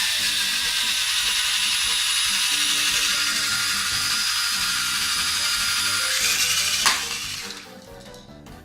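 The small electric motor and spinning rotor blades of a toy flying ball helicopter, a steady high-pitched whir for about seven seconds, ending in a sharp knock and then dying away.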